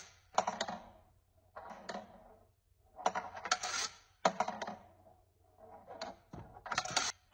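Small hard objects clattering and clicking in short bursts, about five times, with brief quiet gaps between them.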